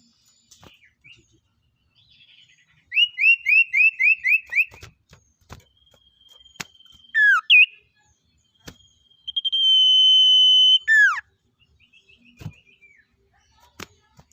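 Songbird singing: a quick run of about seven short rising notes, then long steady high whistles broken by sharp downward-sliding notes, with a few scattered clicks.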